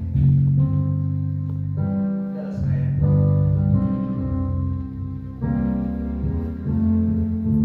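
Piano playing slow, held chords that change every second or so.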